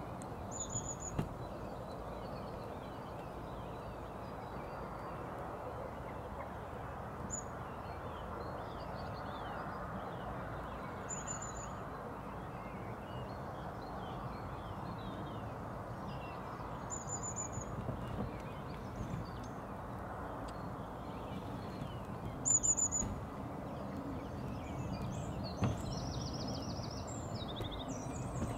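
Songbirds singing: one bird repeats a short, high-pitched phrase every five or six seconds, with fainter chirps from others in between, over a steady low background noise.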